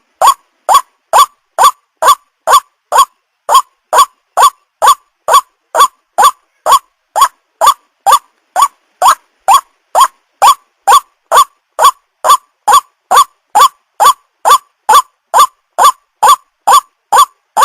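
White-breasted waterhen (ruak-ruak) call: a short note repeated about twice a second at a steady, even pace.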